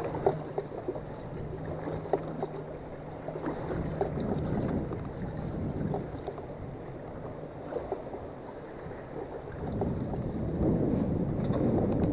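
Small boat at sea: a low steady hum for the first few seconds, with wind and water noise and scattered light knocks. The noise grows louder near the end.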